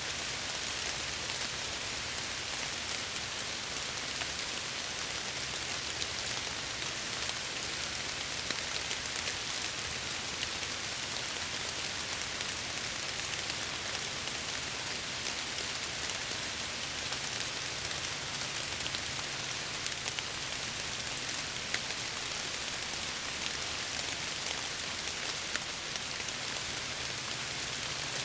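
Steady rain falling against window glass: an even hiss with scattered single drop ticks.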